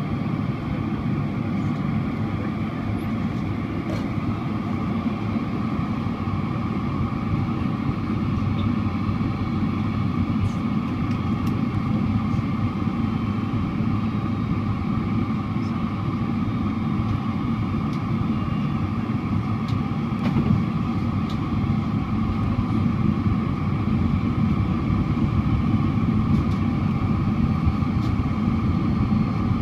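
Steady cabin drone of a Boeing 767-400ER airliner: engine and airflow noise heard from inside the passenger cabin, growing slightly louder near the end.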